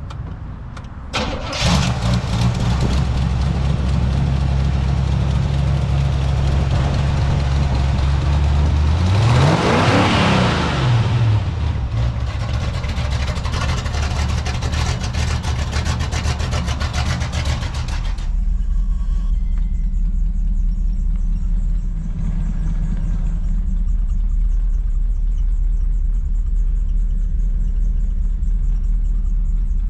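Car engine cranks and catches about a second and a half in, then runs steadily; around ten seconds in it is revved once, the pitch rising and falling. From about eighteen seconds the sound turns to a duller, steady low rumble.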